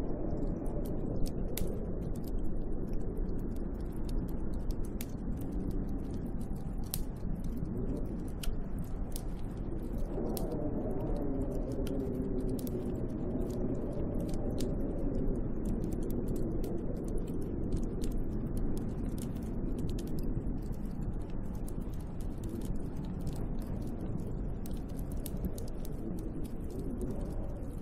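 Snowstorm wind howling, its pitch wavering up and down, with a stronger gust about ten seconds in. Many small sharp ticks run through it.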